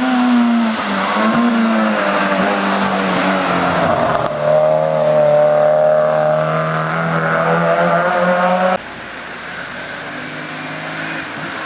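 Hillclimb race car engines running hard at high revs, the pitch rising and falling with throttle and gear changes. About nine seconds in the sound cuts abruptly to a quieter car.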